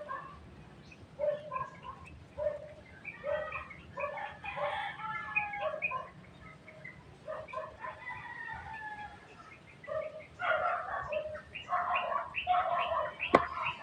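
Repeated short animal calls, pitched and bending, coming thicker near the end, with one sharp click shortly before the end.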